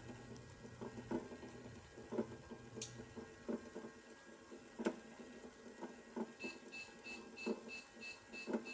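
Toy microwave running: a low hum for the first few seconds under irregular clicking and rattling, then a rapid high electronic beep, about three a second, starting about six and a half seconds in.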